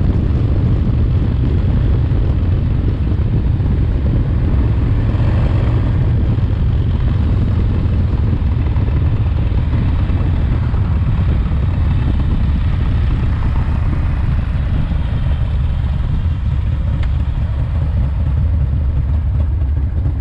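Rebuilt S&S 107 cubic inch V-twin in a Harley-Davidson FXRT running steadily under way on its first break-in miles, a continuous low drone.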